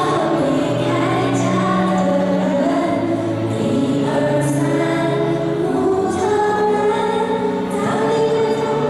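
A whole class of junior-high students singing a song together as a choir, over accompaniment music.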